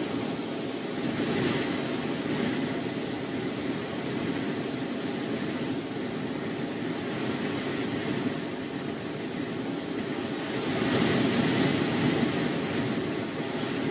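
Wind rushing and gusting over an outdoor nest-camera microphone, a steady low rumble with hiss that swells about a second in and again near the end.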